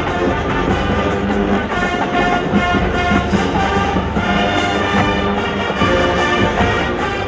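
Marching band of brass and drums playing a tune steadily at full volume.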